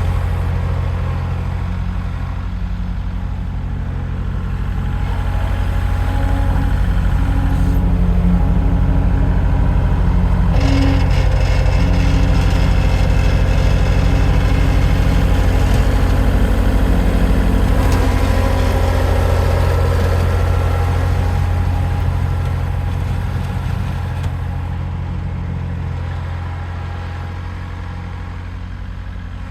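Diesel engine of heavy equipment running steadily, getting louder through the middle stretch and easing back near the end.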